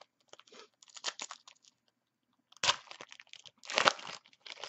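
Crinkling and rustling of a trading-card pack's foil wrapper and cards being handled, in short bursts, with two louder crinkles in the second half.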